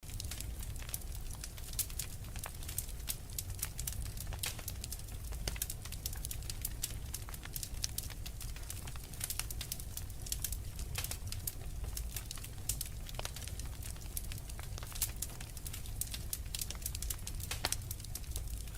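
Wood fire crackling: many small irregular pops and snaps over a steady low rumble of burning.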